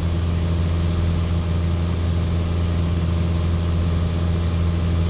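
Single-engine Piper Cherokee's piston engine and propeller droning steadily in cruise flight.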